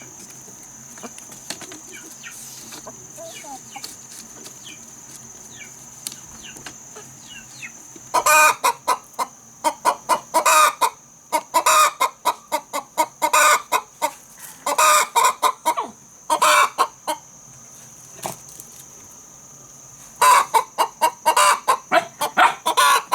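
Chickens clucking in loud, rapid bursts that start about a third of the way in and come in clusters with a short lull, over a steady high-pitched insect drone.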